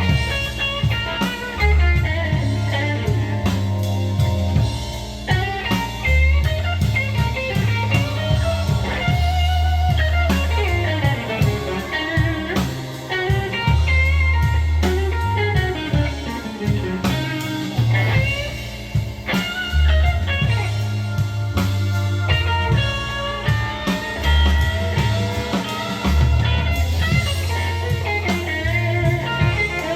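Blues song in an instrumental passage: a guitar solo with bent, wavering notes over a steady bass line and drum kit.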